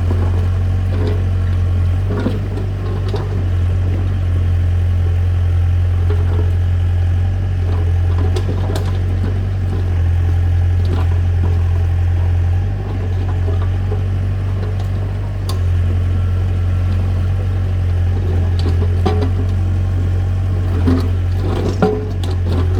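A heavy machine's engine running steadily at a low, even hum, with scattered short knocks over it.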